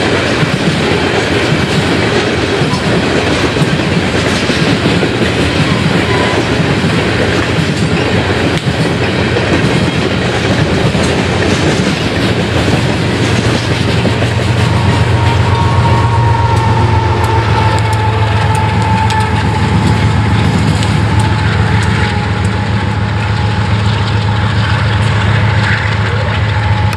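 Loaded steel coal hopper cars rolling past, their wheels clacking over the rail joints in a steady rush. From about halfway a deep, steady engine drone grows in underneath: the rear distributed-power GE ES44AC diesel locomotive approaching. A faint wheel squeal rises and fades in the middle.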